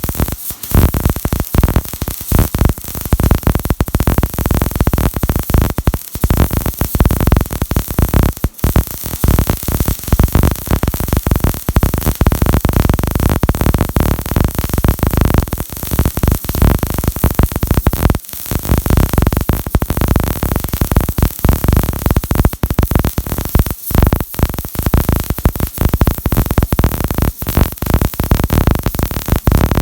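Electric welding arc crackling and sputtering without a break. The sound cuts out briefly now and then, about a third of a second in, near six, eight and a half, eighteen and twenty-four seconds, when the arc is broken.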